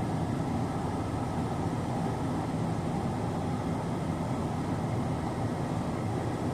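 Steady low rumble of a vehicle engine running, holding an even level with no revving or sudden sounds.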